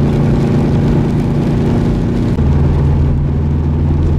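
Subaru hatchback driving, heard from inside the cabin: a steady engine and road hum whose pitch drops abruptly about two and a half seconds in.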